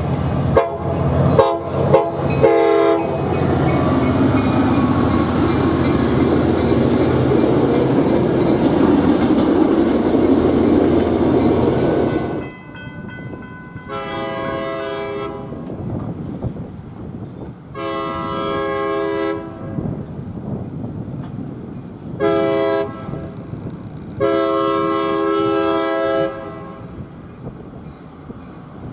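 A train passing close, rumbling and clacking over the rail joints, with a few short horn notes at the start; the sound cuts off abruptly about twelve seconds in. A train horn then sounds the grade-crossing signal: long, long, short, long.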